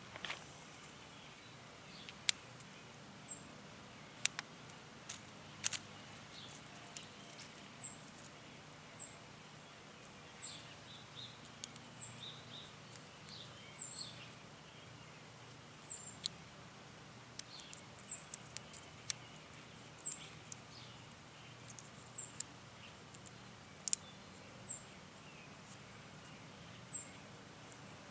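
A small bird's short, high chirps repeating about once a second, over scattered sharp clicks and rustles from handling the potato plants.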